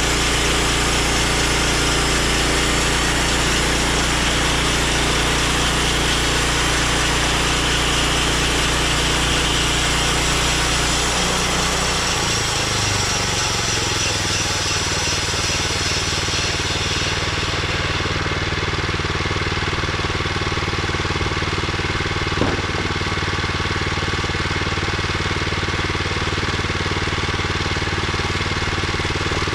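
Petrol engine and band blade of a Woodland Mills HM126 portable bandsaw mill running steadily while sawing a hardwood log. About twelve seconds in the engine note changes, and the high hiss of the cut fades soon after. There is a single sharp knock near the end.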